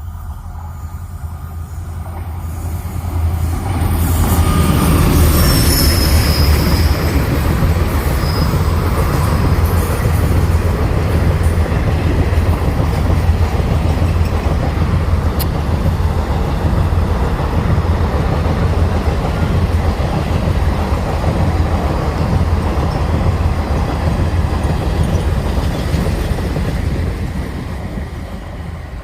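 A train running past at close range: a heavy rumble of wheels on rails that builds in the first few seconds, with a brief high wheel squeal about five seconds in, then holds steady and fades away near the end.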